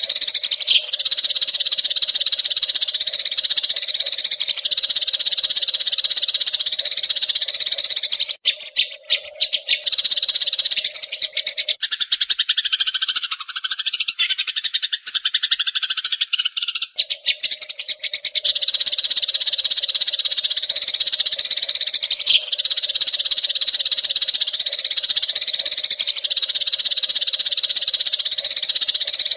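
Dense, continuous chirping chatter of a flock of Eurasian tree sparrows. For a few seconds in the middle the high chatter drops away and lower, wavering notes take over, then the full chatter resumes.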